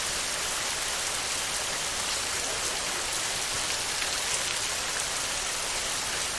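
Steady heavy rain falling on a tin roof, an even hiss with faint scattered drop ticks.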